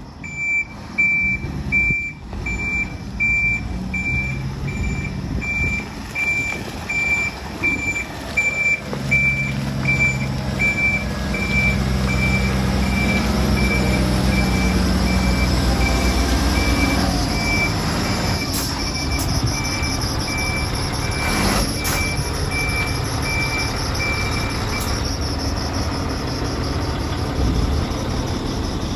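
Volvo A40D articulated dump truck reversing, its back-up alarm beeping steadily about twice a second over the running diesel engine. The engine note swells for several seconds mid-way, and the beeping stops a few seconds before the end, with a couple of short sharp sounds shortly before that.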